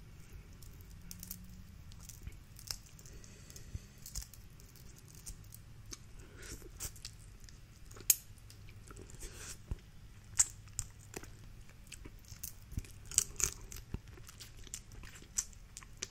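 Seafood shells being cracked and peeled by hand, with chewing close to the microphone: scattered sharp cracks and clicks, the loudest about eight, ten and thirteen seconds in.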